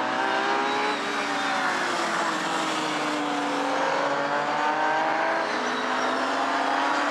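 Historic racing cars' engines running hard, several at once, their pitches rising and falling as they accelerate and back off.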